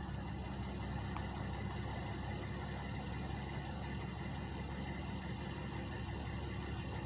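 Two trucks' engines idling, a steady low drone that holds level throughout.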